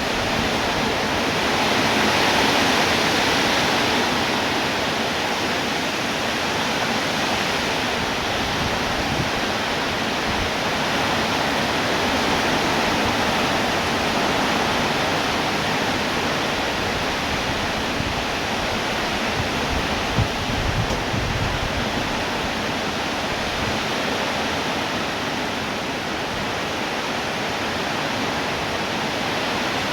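Steady rainfall, an even hiss of drops that swells a little a few seconds in and then holds steady.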